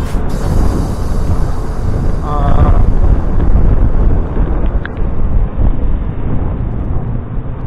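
Loud rumbling wind and road noise on an action camera's microphone from a motorbike ride in drizzle, with a brief wavering pitched sound about two and a half seconds in.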